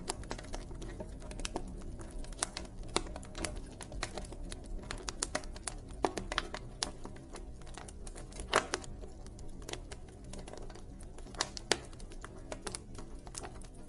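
Campfire burning, wood crackling and popping in irregular sharp snaps over a low steady rumble of the flames, with one louder pop a little past the middle.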